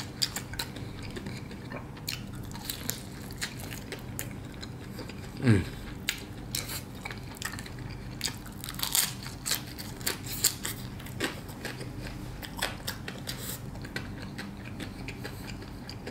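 Close-up chewing of a crispy deep-fried crab rangoon: irregular crackly crunches of the fried wonton wrapper. A short hum from the eater falls in pitch about five seconds in.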